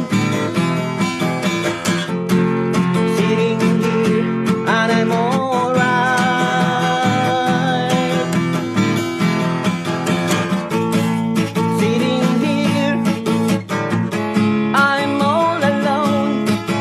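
Instrumental break in an acoustic song: steel-string acoustic guitar strummed chords, with a wavering lead melody line over them that comes in about five seconds in and again near the end.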